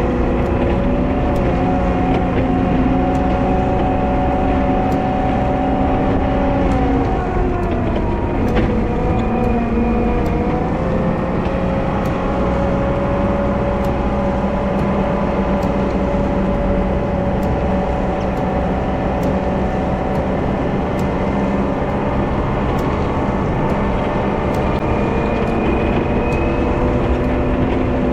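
Wheel loader's diesel engine running steadily under load while plowing snow. Its note drops about seven seconds in and picks up again around ten seconds.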